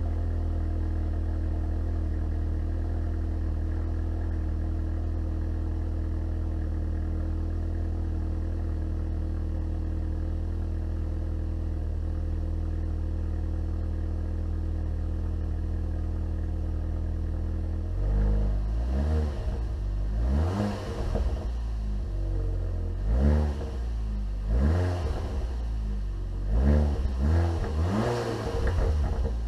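Seat Leon Cupra R's 2.0 TFSI turbocharged four-cylinder idling steadily after a cold start, heard through a Milltek non-resonated cat-back exhaust. About two thirds of the way in it is revved in a series of short blips, the pitch rising and falling with each one.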